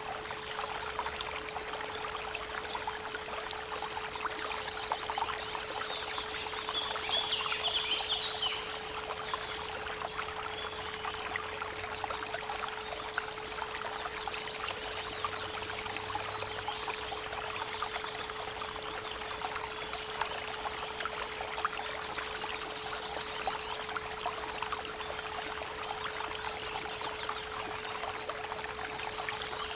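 Creek water running steadily, with a continuous 432 Hz pure tone held underneath. Birds call briefly several times, most around eight seconds in and again about twenty seconds in.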